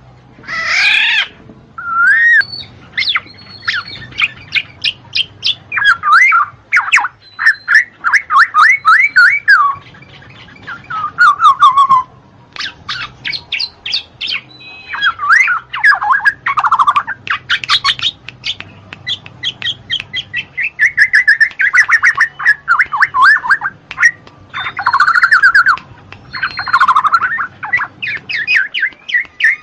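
Black-naped oriole (kepodang) singing and calling: bursts of rapid, repeated chirping notes and swooping whistles, broken by short pauses, with a faint steady low hum beneath.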